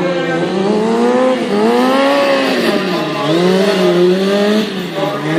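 Stunt motorcycle engine revving, its pitch swinging up and down repeatedly as the throttle is worked.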